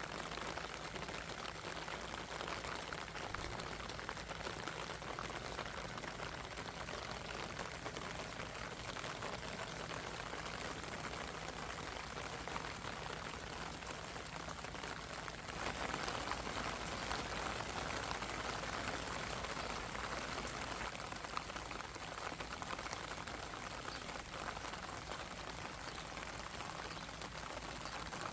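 Steady rain falling, an even patter of drops, growing a little louder about halfway through.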